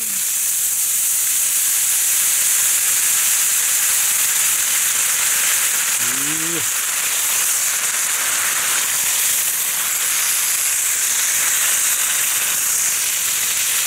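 Chicken pieces frying in a hot pan, hissing and sizzling loudly with steam as tomato sauce hits the hot metal.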